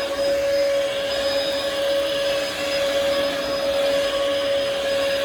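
Bissell vacuum cleaner running steadily: a constant single-pitch motor whine over rushing air.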